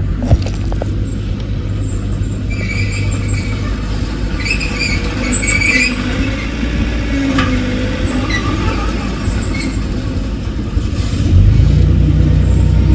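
Diesel engine of heavy earthmoving equipment running steadily, with high metallic squealing for a few seconds early in the middle. Near the end the engine gets louder.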